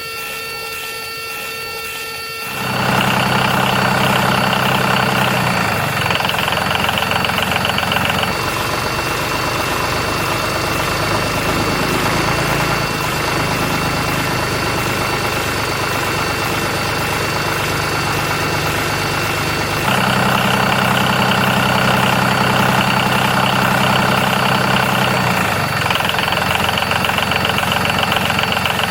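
A small engine running steadily. It comes in suddenly about two and a half seconds in, and its sound shifts abruptly several times.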